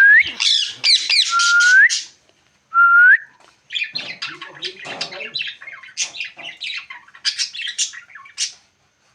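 Pet parrot calling: three whistles that dip and then rise, loud squawks in the first two seconds, then after a short pause a run of short, rapid chattering calls.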